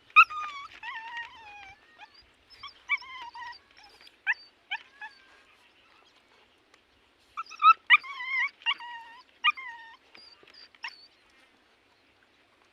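A dog whimpering and whining in strings of short, wavering, high-pitched cries, in two bouts with a pause of about two seconds between them.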